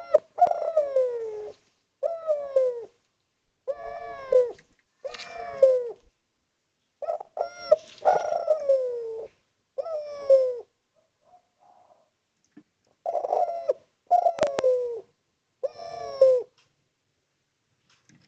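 Spotted dove (derkuku/tekukur) cooing: a series of repeated coos that fall in pitch, with a short pause about two-thirds of the way through. A sharp click sounds late on.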